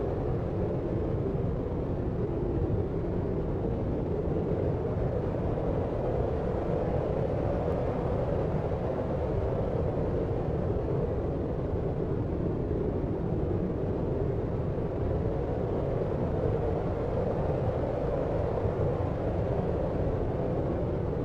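Deep white noise for sleep: a steady, dark hiss-like rumble with most of its weight low, and nothing that stands out or changes.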